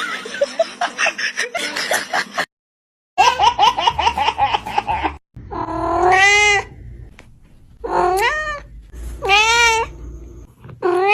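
Cat meowing: several drawn-out meows, each rising and then falling in pitch, following a run of quicker, shorter calls.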